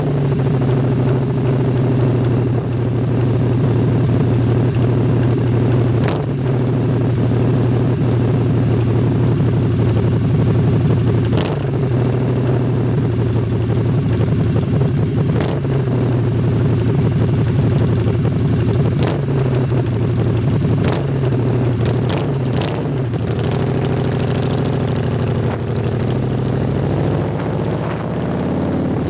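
A vehicle engine running steadily under way. Its pitch drops and comes back up several times near the end as it slows and picks up. A few sharp clicks sound at intervals.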